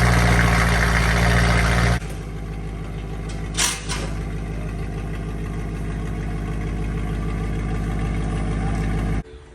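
BMW E92 M3's V8 running through a catless X-pipe and Borla ATAK cat-back exhaust: a loud steady drone for the first two seconds, then dropping suddenly to a quieter steady idle. A short hiss comes about three and a half seconds in.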